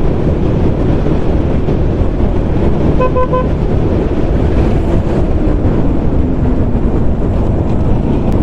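Motorcycle riding on the road with steady engine and wind noise on the microphone. A vehicle horn gives a short beep about three seconds in.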